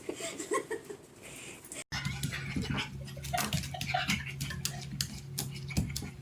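Dog sounds mixed with many short clicks and knocks. After a sudden cut about two seconds in, a steady low hum runs underneath.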